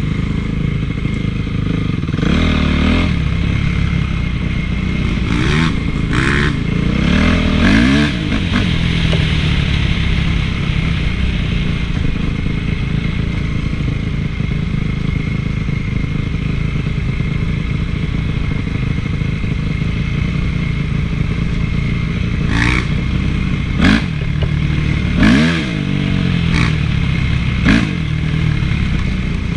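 Honda CRF450 four-stroke single-cylinder motocross engine running on the move, its revs rising and falling sharply a few times early on and several times near the end, with short sharp knocks among them.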